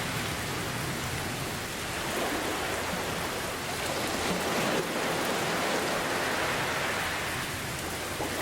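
Steady rain falling, mixed with the wash of ocean surf: an even, continuous hiss with gentle swells in loudness.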